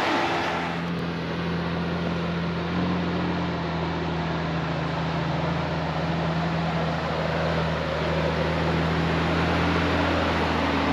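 A vehicle engine idling steadily, a low even hum under a wash of noise.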